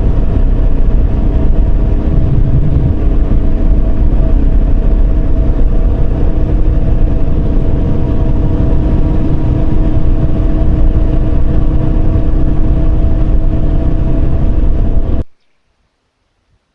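Yamaha Serow 250's single-cylinder engine running at a steady road speed while riding, with heavy low rumble. The sound cuts off suddenly about fifteen seconds in.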